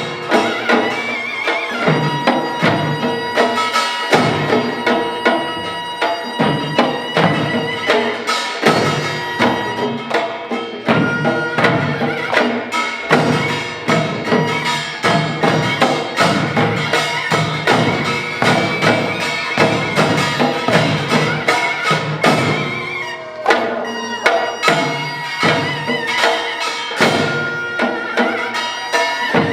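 Korean pungmul percussion ensemble playing a fast, driving rhythm: dense metallic and drum strokes. A high wavering held tone sounds above the beat at times.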